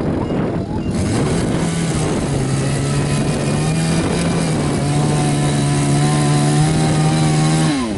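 Chainsaw running at high revs as it cuts into a tree trunk, holding a steady note over a hiss of cutting noise. Near the end the throttle is released and the engine pitch falls away quickly.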